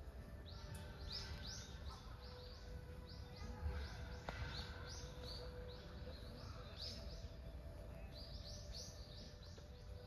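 A small bird calling: a long series of short, high chirps, about three a second, with brief gaps, over a low steady rumble.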